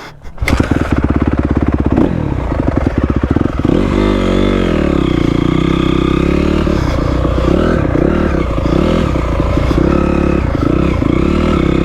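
Honda CRF250R dirt bike's single-cylinder four-stroke engine catching about half a second in, then running at idle with a rev up and back down around four seconds in and small blips of the throttle.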